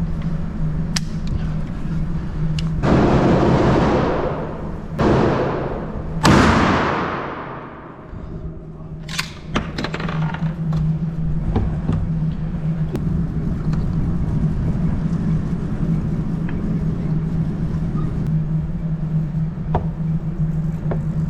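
Three 12-gauge shotgun shots with slugs, about three, five and six seconds in, each ringing out in a long echoing decay inside an indoor range. After them come scattered light clicks and knocks of gun handling over a steady low hum.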